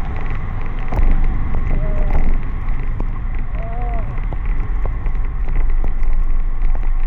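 Wind rumbling on the microphone of a bicycle-mounted camera riding through heavy rain, with raindrops crackling and spattering against it. Two short pitched sounds break through about two and four seconds in.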